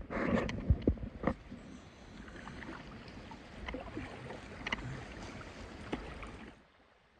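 Kayak paddle strokes on a river: a few sharp knocks in the first second and a half, then a steady wash of water with small splashes that stops shortly before the end.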